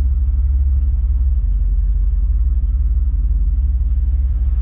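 The 1985 Chevrolet Camaro IROC-Z's 305 tuned-port-injected V8 idling with a steady, deep rumble.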